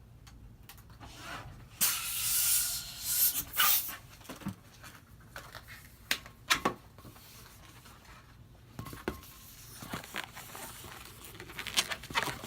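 Rush of air as a latex twisting balloon is inflated, in two spurts about two seconds in, followed by squeaks, rubs and clicks of the balloon being handled.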